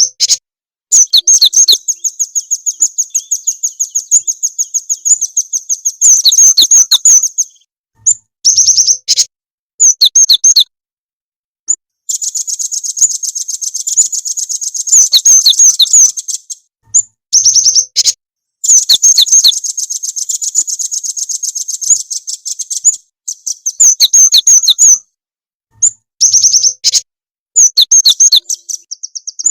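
Recorded songbird song played as a lure track: rapid, high-pitched repeated chirps in bursts of one to five seconds, each cut off abruptly into silence. Such tracks are played to caged cinereous tits and nuthatches to set them singing.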